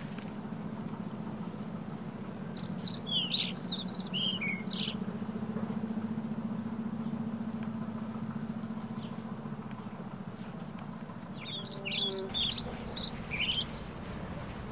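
A small songbird chirping in two quick runs of sharp, falling notes, one a few seconds in and one near the end, over a steady low hum.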